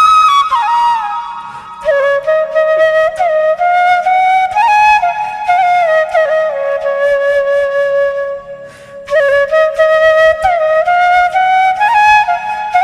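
Background music: a solo flute playing a slow melody with sliding, ornamented notes. It breaks off briefly a little over two-thirds of the way through, then picks up again.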